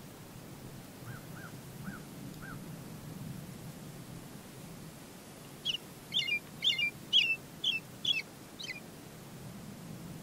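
Birds calling: a few faint short notes, then a quick series of about seven loud, harsh calls over a few seconds.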